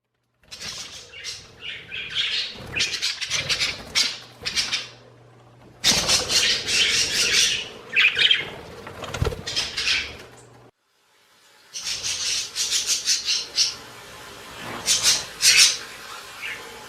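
Pet budgerigar chirping and chattering in quick, busy bursts. The sound cuts off abruptly twice, once for about a second.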